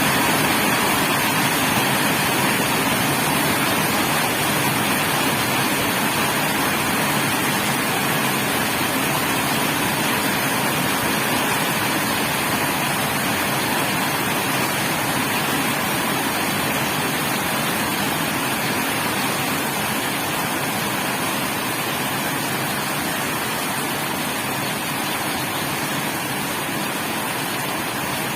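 Rain falling steadily as a dense, even hiss, growing slightly quieter toward the end.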